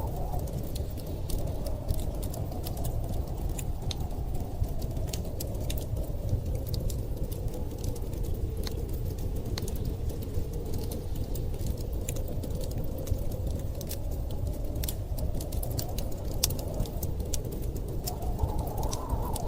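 Fireplace crackling, its sharp pops and snaps scattered irregularly throughout, over the steady rush of blizzard wind. The wind's howl rises in pitch and swells near the start and again near the end.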